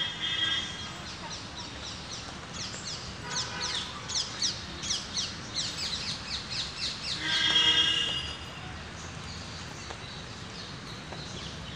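Birds calling outdoors: a songbird's rapid run of high, falling chirps for several seconds, with louder drawn-out calls at the start, about three and a half seconds in and around eight seconds in.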